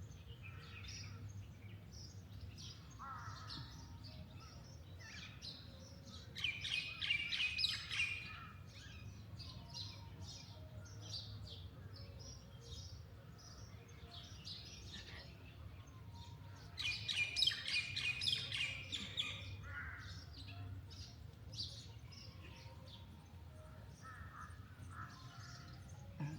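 Wild birds chirping and singing, with two louder bouts of rapid, trilling song, one about a quarter of the way in and one about two thirds in, over a faint steady low rumble.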